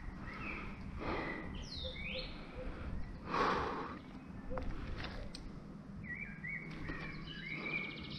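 Birds singing in short chirping phrases, mostly in the first couple of seconds and again near the end, with a brief louder noise about three and a half seconds in.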